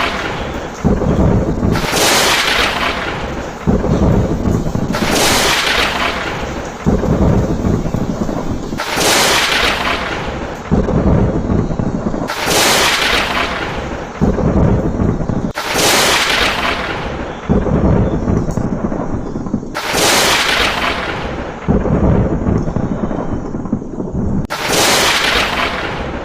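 Thunderstorm: repeated sudden cracks of thunder every couple of seconds, each rolling into a deep rumble, over a steady hiss of rain.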